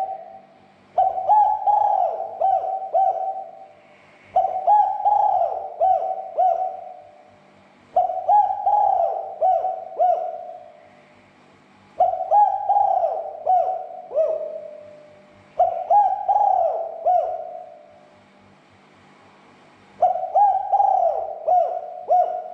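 Spotted dove (tekukur) cooing: a phrase of several bending coo notes lasting about two and a half seconds, repeated every three to four seconds, six times.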